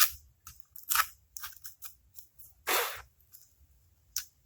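Small flathead screwdriver scraping and picking at grime around valve cover bolts on an old engine block: a run of short scrapes and clicks, with one longer scrape just under three seconds in.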